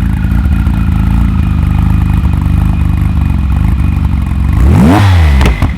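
Tuned car engine idling steadily, then revved sharply about four and a half seconds in, its pitch shooting up and falling straight back.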